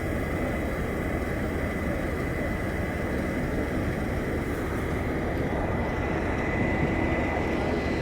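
Class 37 diesel locomotive's English Electric V12 engine running steadily, a continuous rumble with a thin high whine over it.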